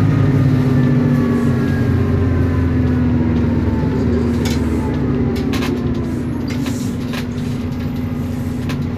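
Isobus City 1200 bus running on the road, its MAN D0836 diesel droning under thin ZF automatic gearbox and differential whine that falls slowly in pitch as the bus slows. A few sharp clicks and rattles sound about halfway through.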